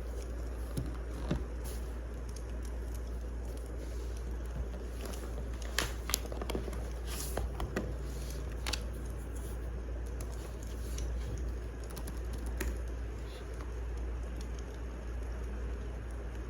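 Wood fire crackling: scattered sharp pops and snaps, thickest around the middle, over a steady low rumble and hiss.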